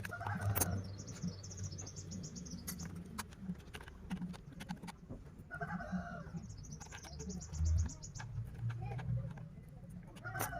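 A bird sings two fast trills of rapid high chirps, each about two seconds long. Chickens cluck now and then, over scattered sharp clicks and taps.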